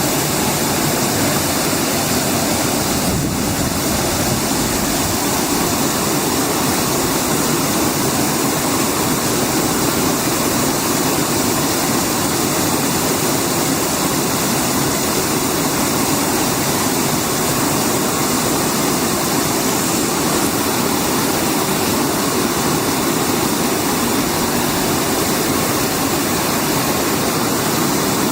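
Air-bubble fruit and vegetable washing machine running: water bubbling and rushing steadily in the wash tank as air is blown through it.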